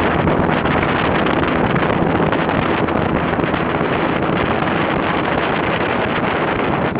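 Heavy rain falling, a steady dense hiss and patter.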